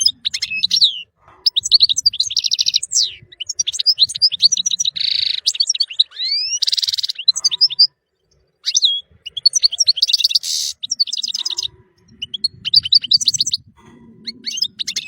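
European goldfinch singing: a fast, tinkling twitter of high notes and trills, broken by three short harsh, rasping notes, with a brief pause about halfway through.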